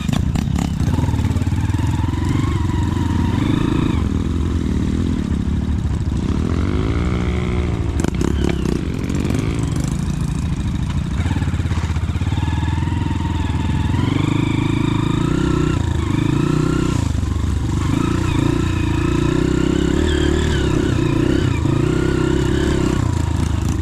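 Motorcycle engine running and revving up and down several times.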